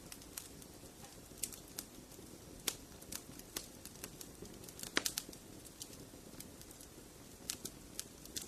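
Wood fire in a fireplace crackling, with irregular sharp pops and snaps over a low steady rumble of flame; the loudest cluster of snaps comes about five seconds in.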